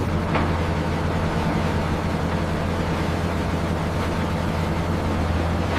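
Heavy machinery running: a steady low hum and rumble that holds even throughout, with a faint tick about half a second in.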